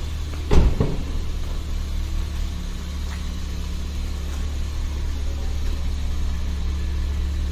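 Car engine idling steadily, with one sharp thump about half a second in.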